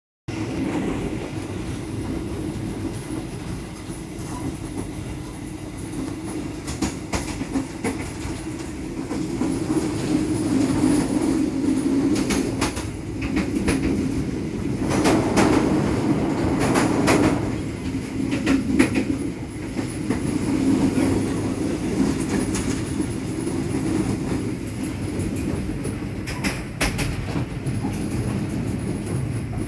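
Running noise of a moving passenger train heard from inside the coaches: a steady low rumble with scattered clicks and rattles. It grows louder for several seconds around the middle.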